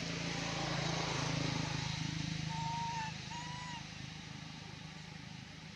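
A motor vehicle's engine hum swells and then fades, as if passing by. Midway there are a few short, high chirping calls.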